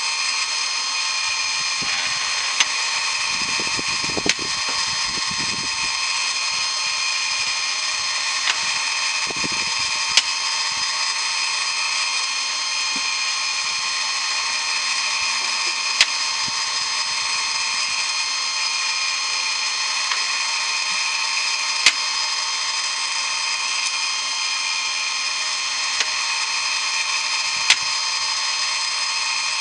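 Harbor Freight electric chainsaw sharpener grinder running steadily with a high whine, working as the grinder head of a homemade automatic bandsaw blade sharpener, with a sharp tick every few seconds.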